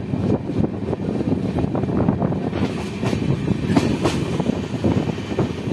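Indian express passenger train running at speed, heard from an open coach doorway: a steady rumble of wheels on rail with rapid clickety-clack, and a few sharper clacks about three to four seconds in.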